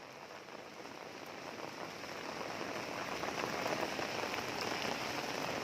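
Heavy rain pouring steadily, a dense even hiss that grows gradually louder.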